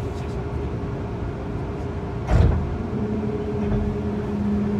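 Tobu N100 series Spacia X train running slowly, heard from inside its front cockpit suite: a steady low rumble, one loud knock about halfway through, and a steady low hum that comes in shortly after.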